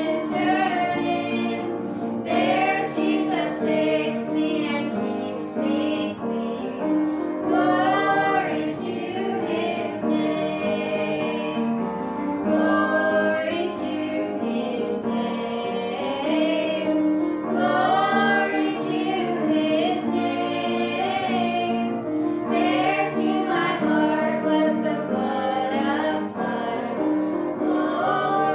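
A hymn sung by a family, with female and child voices together over a sustained instrumental accompaniment.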